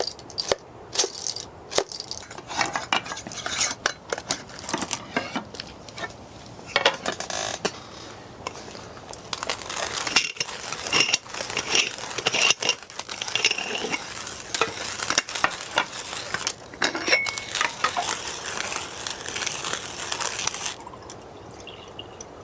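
Small metal objects clinking and clattering, like cookware and utensils being handled: many short clicks and knocks, thickening into a busy run of rattles in the middle.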